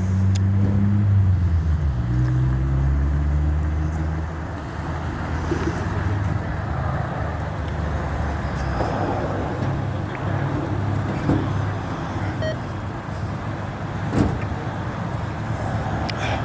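A motor vehicle's engine running, its pitch dropping and then rising again in the first few seconds before settling into a steady low hum with road noise. A single sharp knock sounds about fourteen seconds in.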